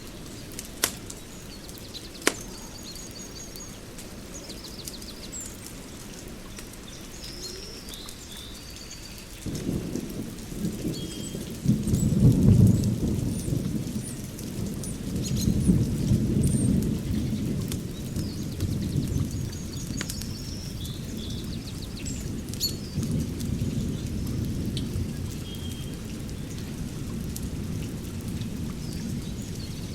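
Small birds chirping, with two sharp pops in the first few seconds. A deep rumble cuts in about a third of the way through, is loudest near the middle, swells again shortly after and keeps going.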